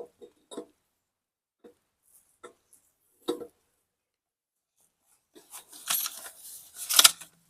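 Greased telescoping halves of a PTO driveshaft being worked together by hand: scattered small clicks and scrapes, then a burst of sliding and metal knocks near the end, the sharpest knock about seven seconds in.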